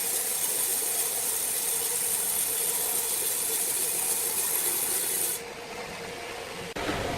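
Sawmill saw cutting wood: a steady rasping hiss with a faint steady tone. About five seconds in the hiss suddenly thins out, and near the end a different machine sound with a low hum starts abruptly.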